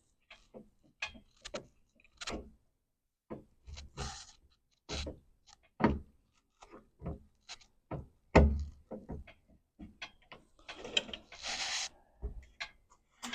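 Irregular clicks and knocks of parts being handled and fitted together while a car window motor is reassembled onto its regulator, with a short scraping rub about eleven seconds in.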